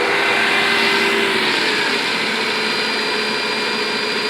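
Mercedes-Benz E430's 4.3-litre V8 idling with the AC on high and the compressor clutch engaged: a steady mechanical hum with faint steady tones, one fading out about a second and a half in. The AC compressor is one the owner calls bad: it fails to build high-side pressure.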